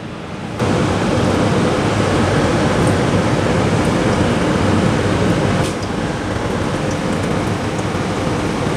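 Mutton mince kofta balls sizzling as they shallow-fry in hot oil in a non-stick wok: a steady hiss that starts suddenly just under a second in and drops a little in level about halfway through.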